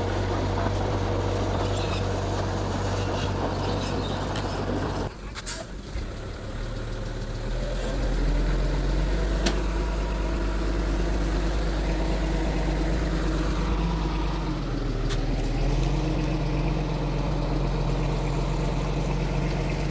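Bulldozer's diesel engine running steadily. Its sound drops away and breaks briefly about five seconds in, and its note shifts around fifteen seconds in as the load changes.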